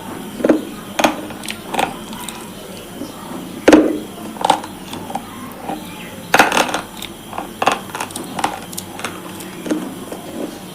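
Close-up crunching as someone bites and chews hard, brittle pieces: a string of sharp, irregular crunches, the loudest about four and six and a half seconds in.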